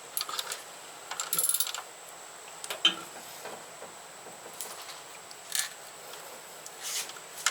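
A socket ratchet wrench clicking in short spells, with scattered metallic clicks and clinks of tools working on a fastener.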